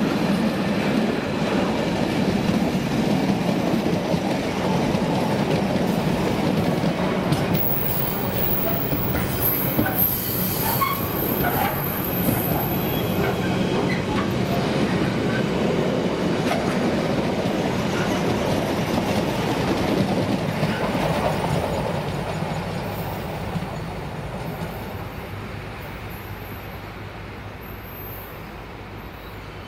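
Freight train wagons rolling past on the rails, with a brief high-pitched wheel squeal about ten seconds in, then the sound fading steadily as the train draws away.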